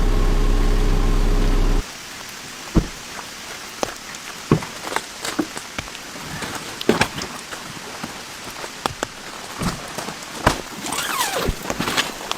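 Land Rover Defender's engine idling, then switched off abruptly about two seconds in. Steady rain follows, with scattered heavy drops ticking sharply and a brief falling tone near the end.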